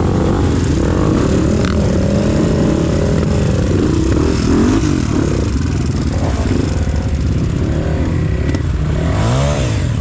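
Off-road trail motorcycle engine running steadily, its pitch rising and falling again and again as the throttle is worked.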